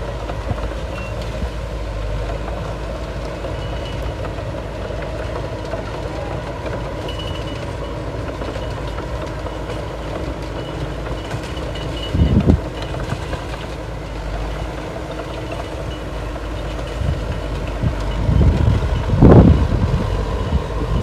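Heavy diesel earthmoving machinery running steadily, with a faint intermittent reversing beeper. Two loud thuds break through, one about twelve seconds in and a longer, louder one near the end.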